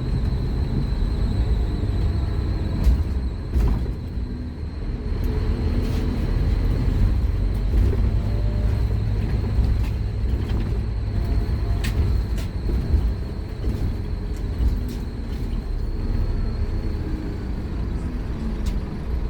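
Scania K230UB Omnilink bus's five-cylinder diesel engine running under way, a steady low rumble with faint rises and falls in engine note. A thin high whine sits over it until near the end, with scattered clicks and rattles from the bus body.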